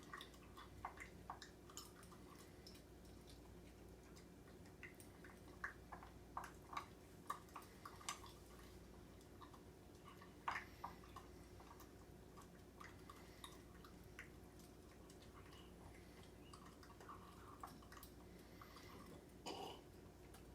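Faint, irregular wet clicks and smacks from a terrier's mouth, the sharpest clustered in the middle, with one slightly longer sound near the end.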